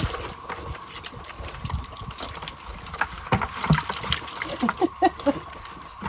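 Feeder pigs grunting around their feed, a run of short grunts in the second half, with scattered knocks and clatter.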